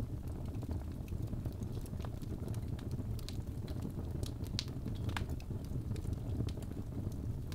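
Birch logs burning in a fireplace: a steady low rumble of flame with scattered sharp crackles and pops, most frequent about three to five seconds in.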